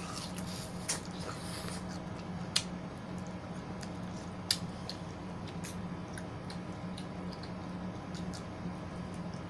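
Close-up wet chewing of juicy pineapple and yellow watermelon, with a few sharp clicks (two stand out, about two and a half and four and a half seconds in) over a steady low hum.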